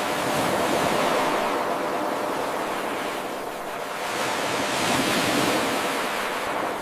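Ocean waves washing onto a shore: a steady rushing surf that swells, eases about three seconds in, and swells again. It is a short wave recording looped without pause.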